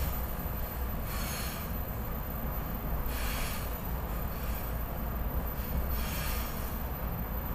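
Cabin noise of a SEPTA Regional Rail car in motion: a steady low rumble under a rushing, hissy noise that swells and fades every second or two.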